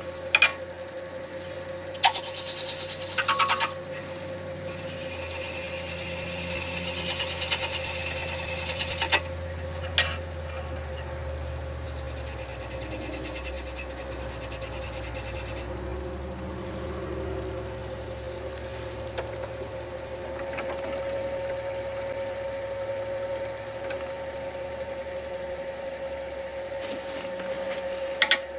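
Midi lathe running with a steady hum while a tool works the spinning acrylic pen blank in bursts of scraping, two loud ones early on and a fainter one in the middle. A few sharp knocks are heard: one near the start, one about ten seconds in and one near the end.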